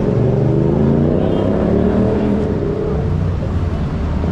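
A motor vehicle's engine running close by, its pitch wavering before it fades about three seconds in, over a steady low rumble.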